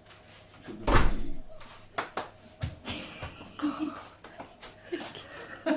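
A heavy thump about a second in, followed by a few light knocks and clicks.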